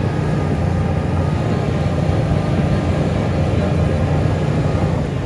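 Diesel engine of heavy earthmoving machinery running steadily under load.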